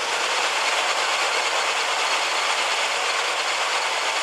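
1968 Chevrolet El Camino idling with its air conditioning running while the system is being recharged and starting to cool, heard as a steady, even noise.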